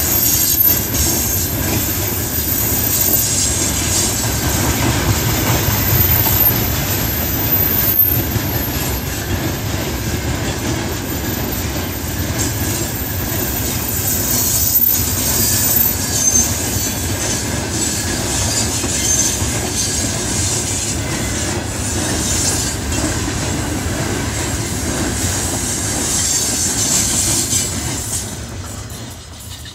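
A long freight train of open gondola wagons rolling past at close range: a steady rumble of steel wheels on rail, with wheel clatter and a thin high squeal over it. The sound fades away near the end as the last wagons go by.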